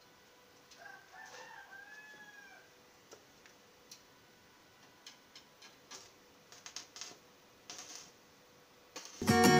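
A rooster crows once, faintly: one long arching call. Scattered light clicks and taps follow, and guitar music comes in near the end.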